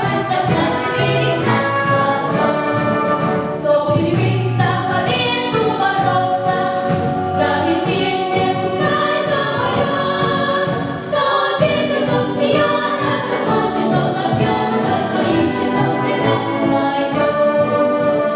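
Children's choir singing a march-like song, accompanied by an orchestra.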